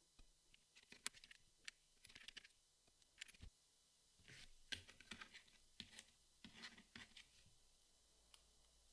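Puzzle pieces being handled: soft, irregular clicks, taps and short scratchy slides as pieces are picked up and fitted, thinning out about seven and a half seconds in.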